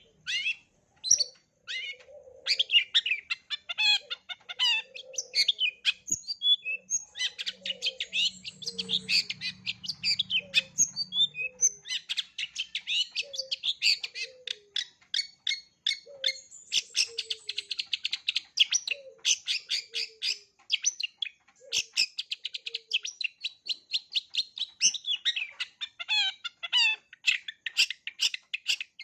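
Long-tailed shrike singing a fast, varied chattering song packed with mimicked calls, with a lower two-note call repeating every second or two beneath it.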